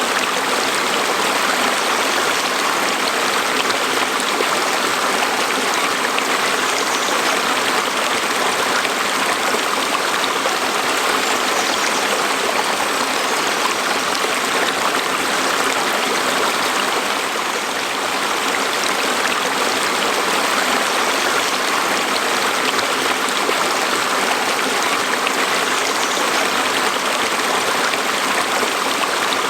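Stream water flowing over rocks: a steady rushing and babbling.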